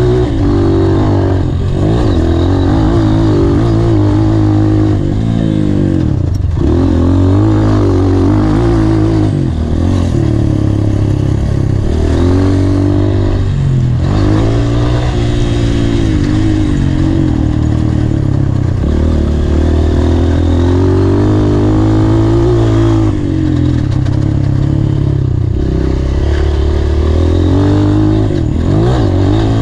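Honda CRF230 single-cylinder four-stroke dirt-bike engine heard from on board, revving hard and falling back over and over as the throttle is opened and closed, with a sharp drop in pitch every few seconds before it climbs again.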